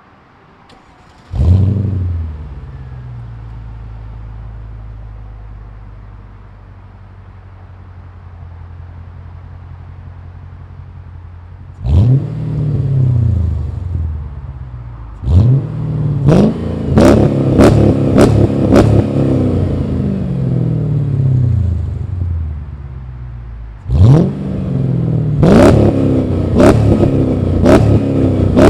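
2000 Mercedes-Benz E55 AMG's 5.4-litre V8, exhausting through an X-pipe, resonator delete and Magnaflow muffler, starts up about a second in with a brief flare and settles to a steady idle. It is then revved in place: a few longer revs and two runs of quick throttle blips, each dropping back toward idle.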